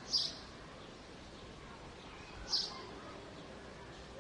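A bird giving short, high chirps that fall in pitch, two of them about two and a half seconds apart, over a steady background hum of city noise.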